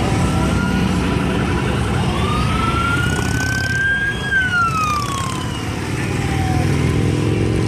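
A siren wails once, rising in pitch for about two seconds and then falling away, over a dense low rumble of many motorcycle engines running.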